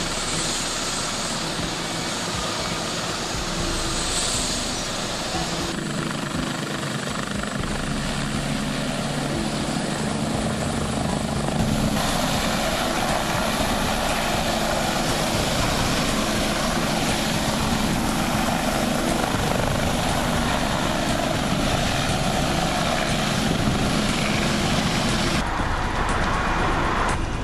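Air ambulance helicopter running steadily, with engine whine and rotor noise, loud and continuous. The sound changes abruptly three times, at edits about 6, 12 and 25 seconds in.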